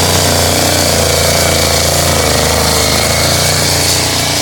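Cummins 903 diesel V8 in a 1957 Jeep cabover truck running hard under load during a truck pull, a steady clattering drone. Its pitch wavers and dips slightly about halfway through.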